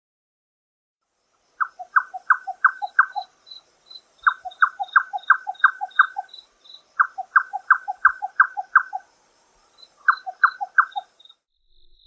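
Nightjar calling: four runs of quick, even, down-sweeping notes at about four a second, the runs separated by short pauses. A faint, steady, high insect-like pulsing sits behind them.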